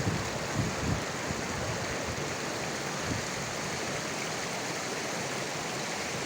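Meltwater stream rushing steadily, with a few brief low rumbles in the first second.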